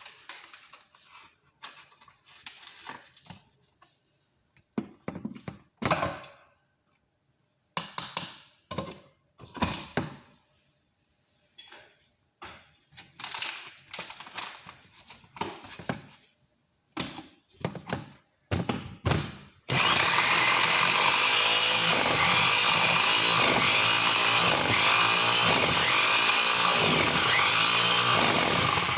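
Kitchen utensils and containers clattering and knocking on and off, then about twenty seconds in an electric blender switches on and runs loudly and steadily, its sound pulsing as the contents churn.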